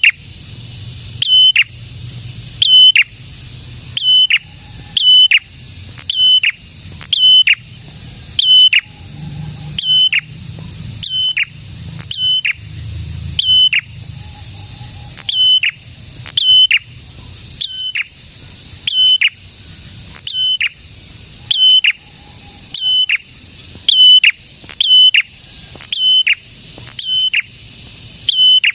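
Prenjak songbird calling loudly and over and over, about one call a second and sometimes in quick pairs; each call is a short high note that drops sharply in pitch. A steady high hiss runs underneath.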